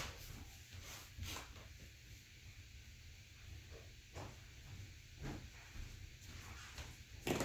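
Kindling fire just catching in a wood-burning fireplace insert, faint crackling with a few scattered sharp pops.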